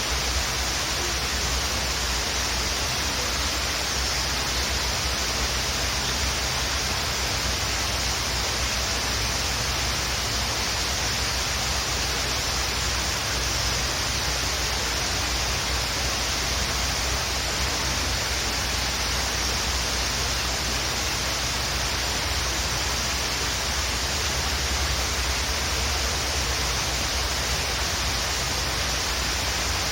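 Waterfall: the steady, unchanging rush of falling water.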